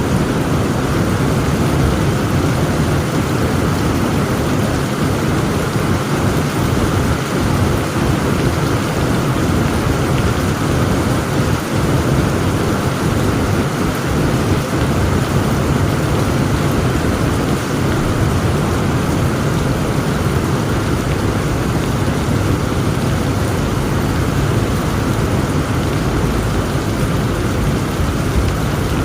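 Heavy rain falling steadily, with thunder rumbling low beneath it; no single sharp crack stands out.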